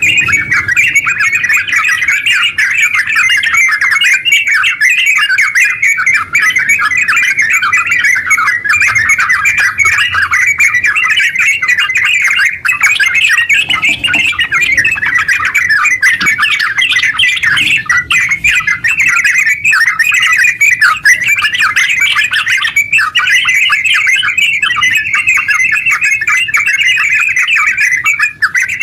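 Yellow-vented bulbul (terucuk) in full song: a long, unbroken run of fast, bubbly chattering notes with no pauses, the rambling 'ngeropel' song that bird keepers play to set other bulbuls singing.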